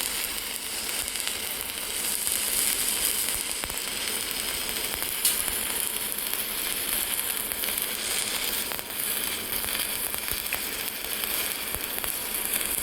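Welding arc on 2 mm SS 316 stainless steel sheet, sizzling steadily, with a short dip about two-thirds of the way through.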